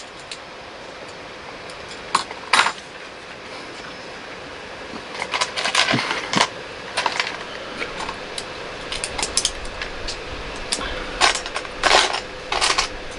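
Plastic LEGO pieces clicking and clattering as they are handled, sorted and pressed together, a few at first and in quick clusters from about halfway through, over a faint steady hum.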